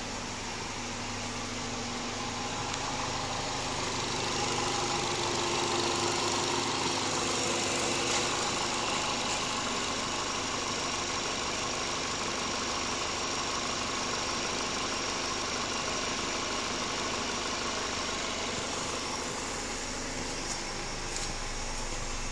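A 2010 Mercury Milan's 2.5-litre four-cylinder engine idling steadily. It gets louder about four seconds in and eases back near the end.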